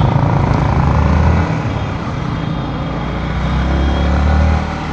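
Yamaha MT-15's single-cylinder engine running steadily under way, with wind and road noise.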